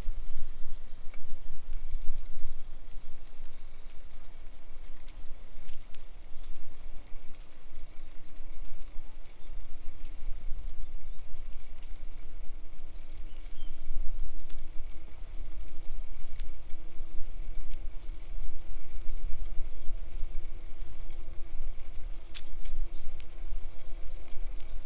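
Outdoor ambience dominated by wind rumbling on the microphone, with faint high steady tones in the background.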